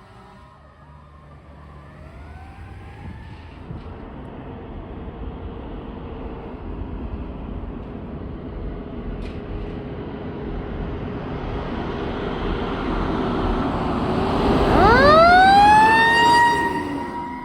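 Fire engine on an emergency response: its engine and road noise grow steadily louder as it approaches. Near the end its siren sweeps sharply up in pitch and holds high, the loudest part, then starts to fade.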